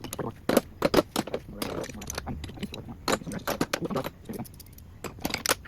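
Metal hand tools clinking and rattling against each other as they are picked up, sorted and set down, in a quick, irregular series of sharp clinks.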